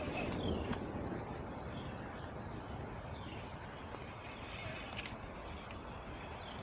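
Outdoor ambience of insects trilling steadily in a high register, with a few short falling chirps now and then.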